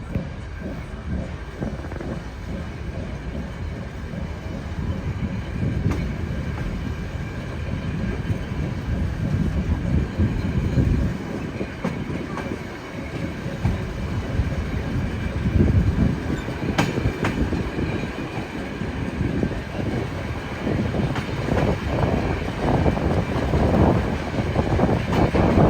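A train running on rails, its wheels clattering over the rail joints, growing louder near the end.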